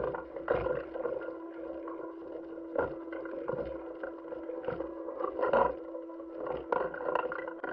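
Steady hum with a few held tones, broken by irregular knocks and clicks, from the soundtrack of NASA spacewalk footage.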